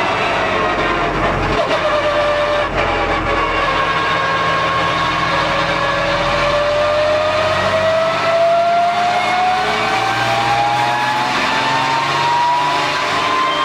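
Porsche GT3 Cup race car's flat-six engine and drivetrain at speed. The pitch sinks over the first few seconds as the car slows, then rises smoothly and steadily as it accelerates through a long pull.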